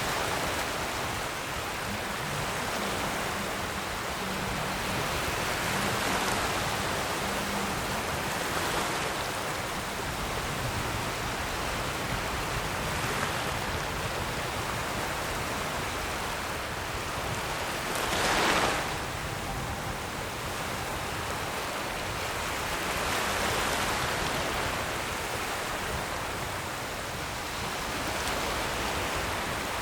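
Ocean surf: a steady hiss of waves washing in, swelling gently every few seconds, with one louder wave breaking about two-thirds of the way through.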